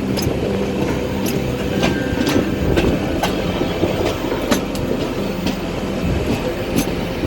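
Passenger train running on the rails: a steady rumble with wheels clattering over rail joints in irregular sharp clicks.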